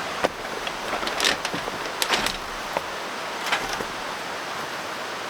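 A steady rush of flowing water, with a few short scrapes and knocks over it in the first four seconds.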